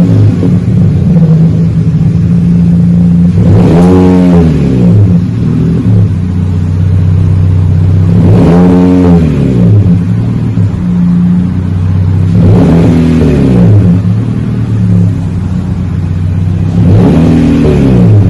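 2019 Honda Civic Sport's four-cylinder engine heard through its exhaust with the rear muffler deleted and only the factory resonator left, idling with a low rumble. It is revved four times, each rev climbing in pitch and falling back to idle over about a second and a half.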